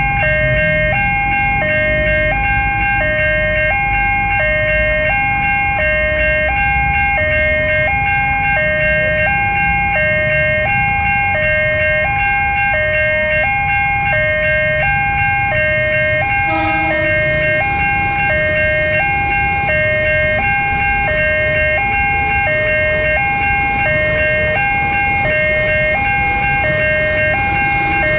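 Railway level-crossing warning alarm sounding continuously: an electronic two-tone signal stepping between a high and a low note about once a second, warning that a train is coming. A short knock is heard about two-thirds of the way through.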